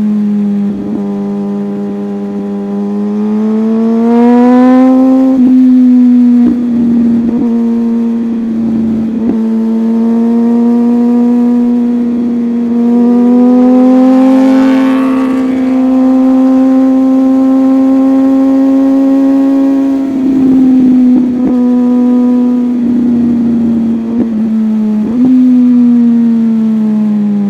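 A superbike's engine running hard at high revs, heard close up as the machine is ridden. Its pitch climbs under throttle, dips briefly at gear changes around 5 and 20 seconds in, and falls away near the end as it slows.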